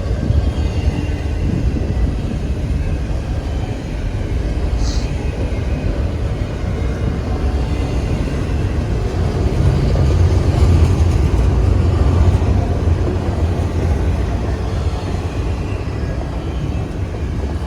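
Freight train rolling past with a steady low rumble that swells about ten seconds in, with a brief high squeal about five seconds in.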